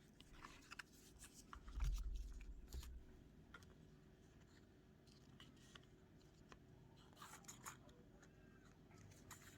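Quiet paper handling: faint rustles and light taps of paper and card being moved and lined up, with a dull low bump on the table about two seconds in.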